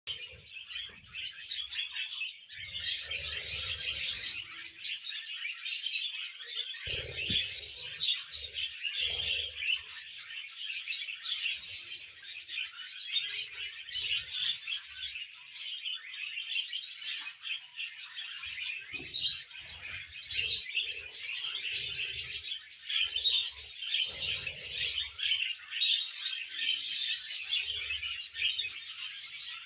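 Budgies and cockatiels chirping and chattering continuously, a dense busy flock chatter, with occasional soft low thuds.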